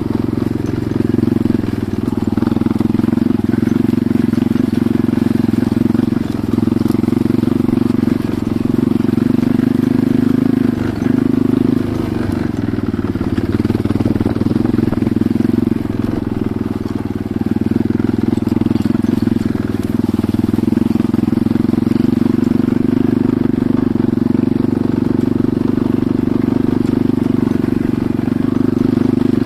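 Enduro motorcycle engine running under way as the bike is ridden, a steady drone that dips briefly now and then.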